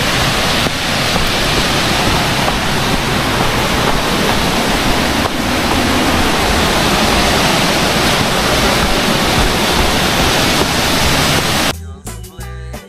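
Waterfall rushing, a steady loud wash of water. It cuts off abruptly near the end as music with a beat comes in.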